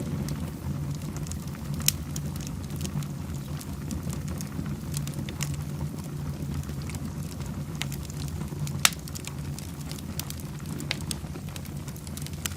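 Fireplace fire crackling over a steady low rumble, with many small crackles and two sharper pops, about two seconds in and near nine seconds.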